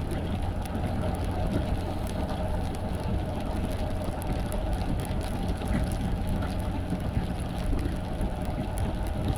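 Car driving in the rain: a steady low rumble of engine and tyres on the wet road, with scattered faint ticks of rain.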